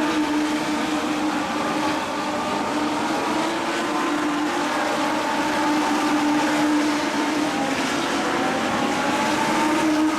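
Legends race cars' Yamaha motorcycle engines running at high revs on the track: a steady drone whose pitch sways slightly down and up again.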